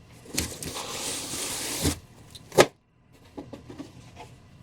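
Cardboard packaging rustling and sliding for about a second and a half as boxed Funko Pop figures are handled, then a single sharp knock, followed by a few faint taps.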